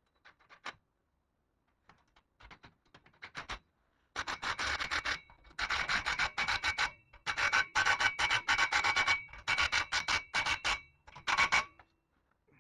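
MIG welder crackling as wire is fed into the weld on exhaust work. A few faint short spurts come first, then from about four seconds in come several longer runs of loud crackle with brief stops between them.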